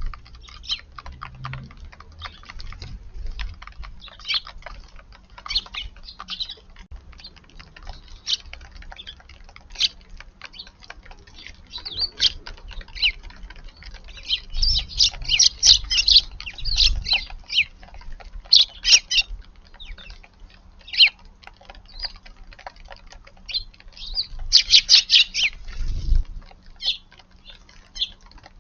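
Eurasian tree sparrows chirping: many short chirps throughout, with a few denser flurries of quick chirping.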